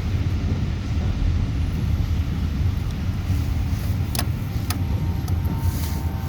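Steady low rumble of a vehicle, with two sharp clicks a little after four seconds in.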